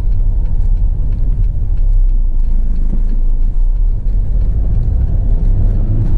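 A Mercedes-Benz Vito 111 CDI van's four-cylinder diesel engine running as the van drives off, heard from inside the cab as a steady low rumble.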